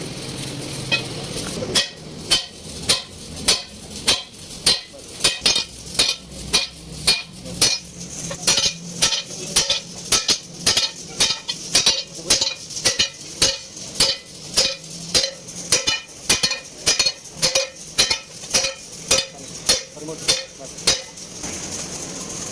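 Hammer striking metal over and over, about two blows a second, each with a short ringing.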